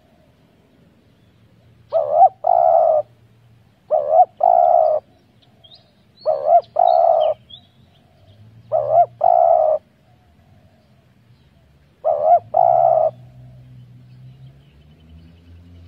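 Spotted dove cooing: five two-part coos, a short note then a longer held one, repeated every two to three seconds. A small bird chirps faintly in the middle.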